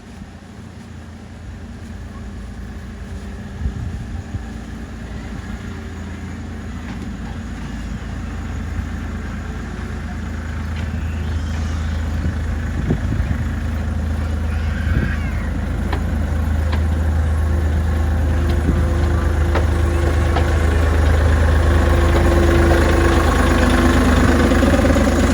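Miniature railway tram engine running as it approaches, its low engine hum growing steadily louder, with a few scattered clicks and a higher tone joining near the end.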